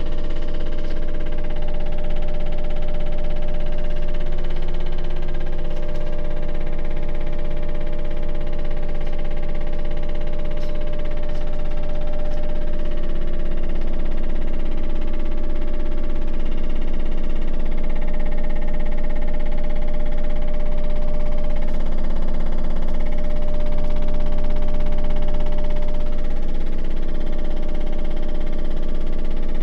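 Toshiba drum-type washing machine running with an abnormal noise: a loud, steady drone of several tones that slowly drift in pitch over a low rumble. The noise comes from the drum's suspension, whose shock absorber was leaking oil and no longer damping the drum's movement.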